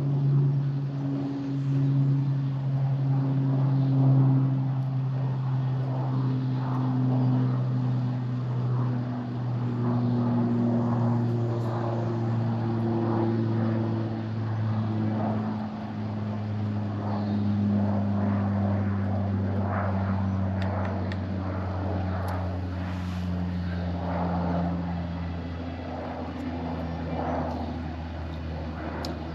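Propeller aircraft flying over, a steady engine drone that slowly falls in pitch as it passes.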